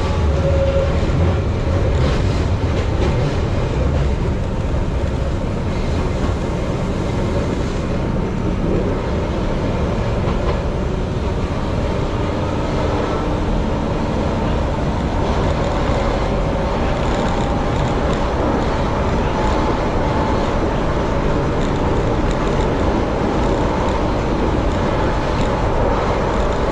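Keihan Ishiyama-Sakamoto Line train running along the track, heard from the driver's cab: a steady rumble of motors and wheels on the rails. A level-crossing bell rings briefly as the train passes the crossing and stops about a second in.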